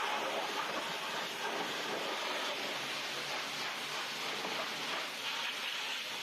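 Steady rushing hiss from car-wash equipment working on the car, with no clear change through the stretch.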